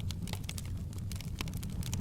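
Wood fire crackling in a fireplace: irregular sharp pops and crackles, several a second, over a steady low rumble of the flames.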